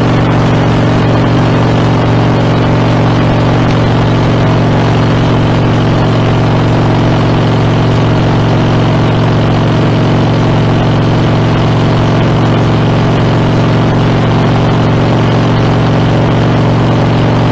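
Harley-Davidson Dyna's V-twin engine running through Screamin' Eagle exhaust at a steady, unchanging pitch, with no revving.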